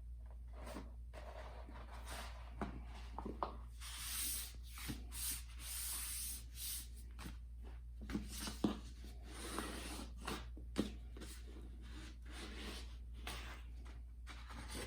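Poster board being folded and creased by hand: irregular rustling and scraping strokes of stiff paper rubbing, busiest in the middle, over a steady low hum.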